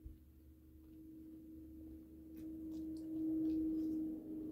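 Faint chewing and mouth clicks of someone eating pizza, over a steady low hum that swells louder about three seconds in and eases off near the end.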